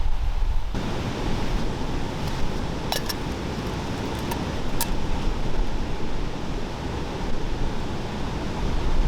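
Steady rushing noise of wind on the microphone, with a few sharp clicks about three and five seconds in.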